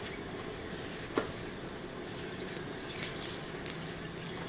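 Steady hiss with a faint, high, unbroken tone above it, and a single sharp click about a second in.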